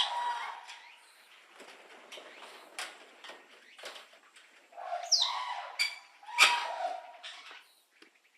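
Bird calls: a burst of harsh chirping calls at the start and a second, louder burst about five seconds in, with scattered short chirps between.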